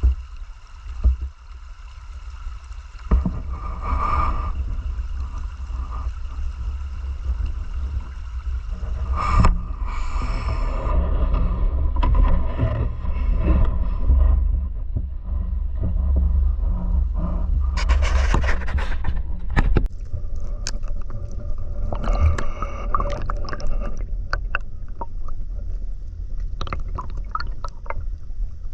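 River water running and gurgling under a heavy low rumble, with irregular scraping and knocking sounds that grow busier about 3 seconds in and again past the middle.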